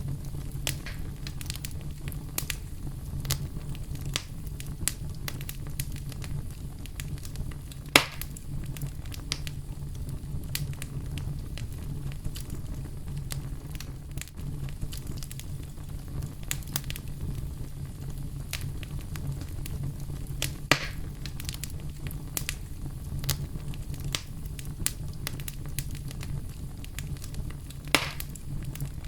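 Bonfire burning with a steady low rumble and continual small crackles. Three louder sharp pops stand out, about 8, 21 and 28 seconds in.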